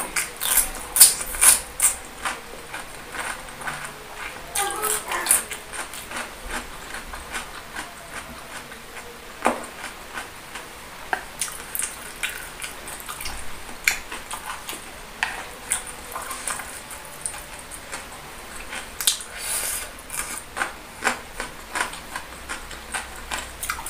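Close-miked eating sounds: a crunchy bite of a raw cucumber slice in the first couple of seconds, then steady chewing with many small crackly clicks and smacks.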